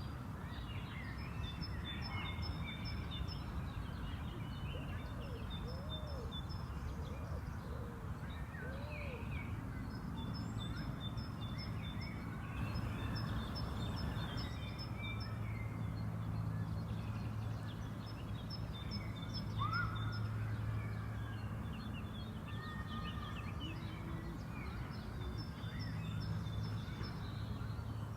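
Songbirds singing in a spring park: a short, rapid trilled phrase repeated every few seconds, with other scattered chirps, over a steady low background hum.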